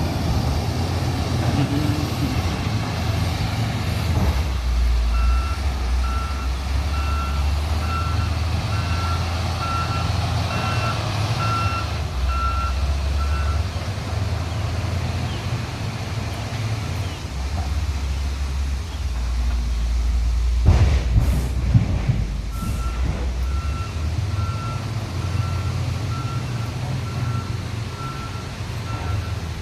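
A steady low engine rumble with an electronic warning beeper repeating at one pitch, about two beeps a second, in two runs. A couple of sharp knocks come a little after the middle.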